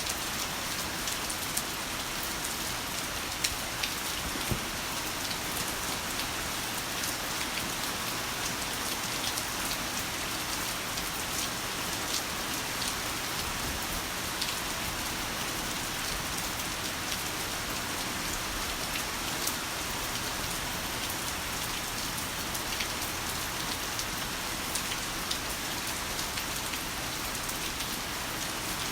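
Heavy rain falling steadily, an even hiss with many close individual raindrops ticking and pattering through it.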